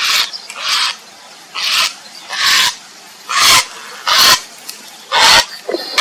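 Grey heron giving about seven loud, harsh croaking calls, each brief and spaced less than a second apart.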